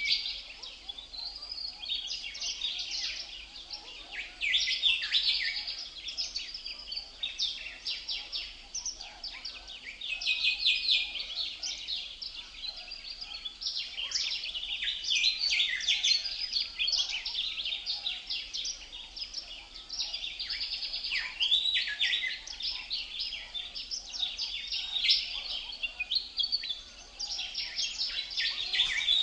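Many small birds chirping and twittering together, a dense, continuous chatter of quick high-pitched calls that swells and eases in bouts every few seconds.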